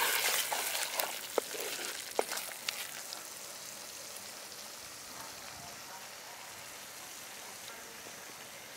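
Prawn ghee roast sizzling in ghee in a clay pot while it is stirred with a wooden spatula, with a few sharp knocks and scrapes of the spatula against the pot in the first three seconds. The sizzle then goes on as a steady, quieter hiss.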